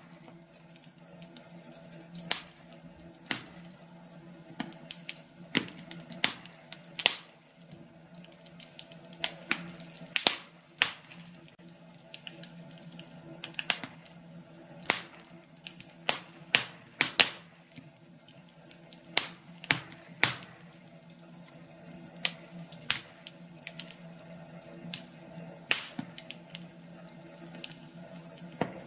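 Wood fire crackling in a fireplace: irregular sharp pops and snaps from the burning logs over a steady low hum.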